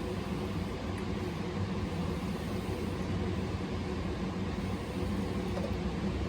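A steady low mechanical hum with a constant drone and an even background noise, unchanging throughout.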